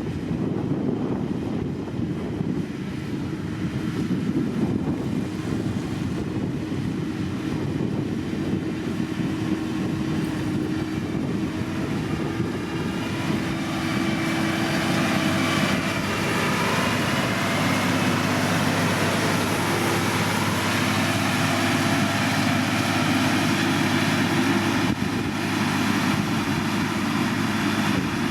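Heavy diesel engine of road-construction machinery running steadily, getting a little louder about halfway through as a higher whine comes in over it.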